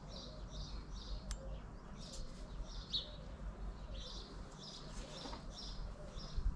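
A small bird chirping over and over, short high notes about two to three a second with a brief pause early on, over a faint low buzz of bees working the flowering bush.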